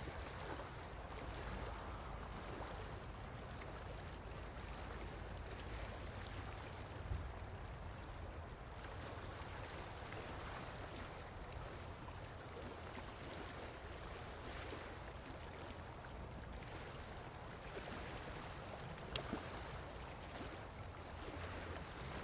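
Steady outdoor background noise, an even hiss over a low rumble, with a few faint clicks about 7 seconds in and again near 19 seconds.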